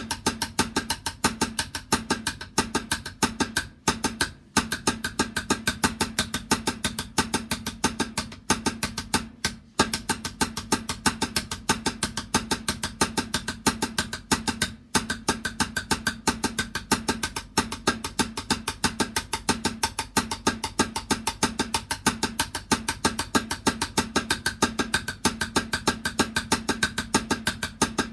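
Drums played in a fast, steady run of strokes, a ringing drum tone under the hits, with a few very short breaks.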